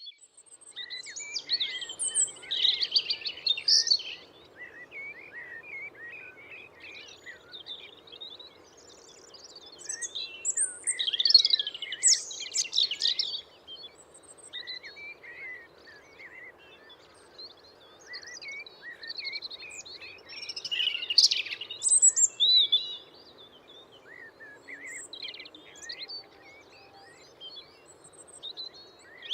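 Several songbirds singing and chirping, with bursts of busier song a few times over a faint steady background hiss.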